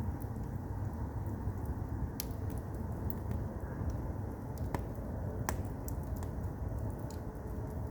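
Firewood burning in an agungi, a traditional Korean firebox: a steady low rumble with scattered small crackles and a few sharper pops, the loudest about two, four and a half, and five and a half seconds in.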